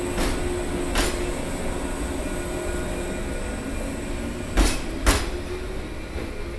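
Train running with a steady hum, its wheels clicking over rail joints: two clicks near the start and a louder pair about half a second apart a little past the middle.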